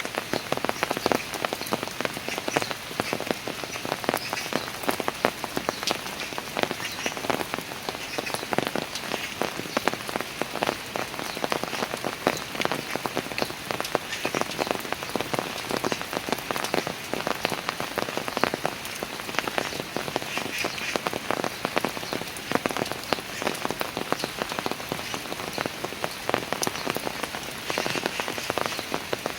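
Steady rain falling on park stairs, a dense patter of many close drops.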